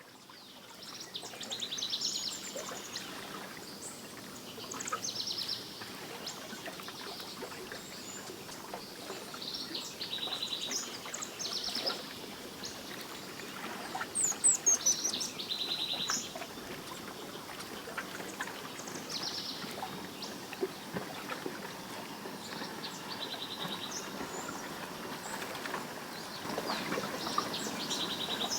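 Songbirds singing: short rapid trilled phrases repeat every few seconds, with a cluster of high chirps about halfway through, over a steady background hiss.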